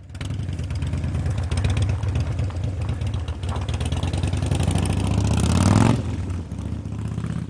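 Yamaha FJR sport-touring motorcycle's inline-four engine running under way, its pitch climbing as it accelerates and then falling away sharply about six seconds in.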